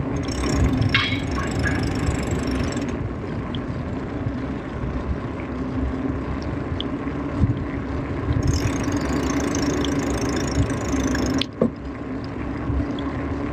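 Wind buffeting the microphone on a moving bicycle, a steady rumble with a faint steady hum underneath.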